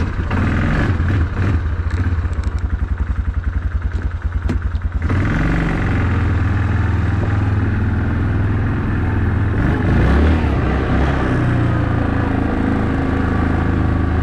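Yamaha Wolverine 450 ATV engine idling with an even, rapid pulse. About five seconds in it revs up and runs steadily under load as the quad pulls away, rising briefly around ten seconds in.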